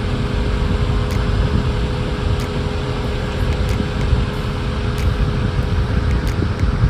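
Steady rumble of a car driving, with engine and road noise, heard from inside the cabin.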